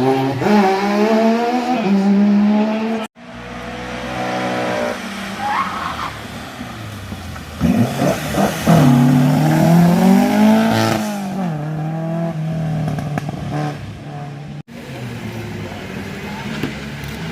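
Racing car engines accelerating hard and backing off, the engine note climbing and falling repeatedly through gear changes. The sound breaks off abruptly twice, between separate passes.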